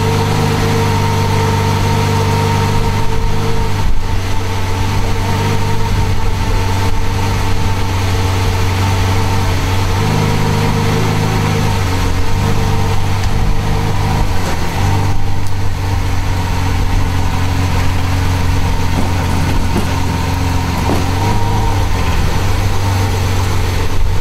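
Lamborghini Veneno's V12 idling steadily, its idle shifting slightly a couple of times about halfway through.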